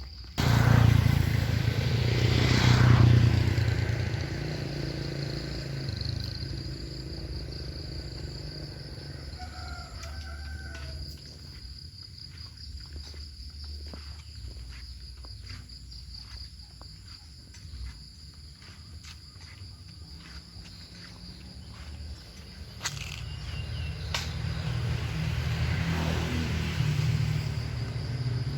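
A motor vehicle rumbles loudly past near the start, and another engine swells up again over the last few seconds. A steady high insect drone runs under it throughout.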